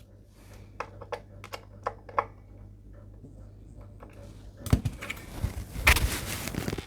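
Small sharp clicks and taps of hands working at an electric guitar's Tune-o-matic bridge, adjusting its height, then a few louder knocks and a short rustling handling noise near the end, over a faint steady hum.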